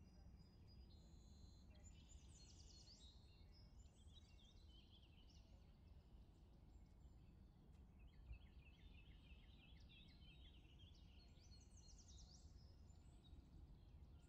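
Very faint birdsong: several birds chirping and trilling over a low, steady rumble.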